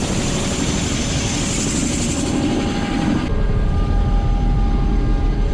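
Helicopter running with its engine and rotor going, a steady noisy hiss that changes abruptly about three seconds in to a heavy low rumble with a steady high whine.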